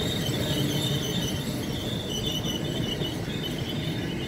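Amtrak passenger coaches rolling past on the rails, with a steady rumble and a flickering high-pitched squeal from the wheels.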